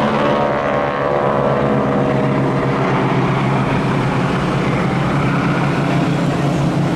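Boeing Stearman biplanes' radial engines and propellers droning loudly on a display pass, the pitch falling over the first couple of seconds as they go by, then running steadily.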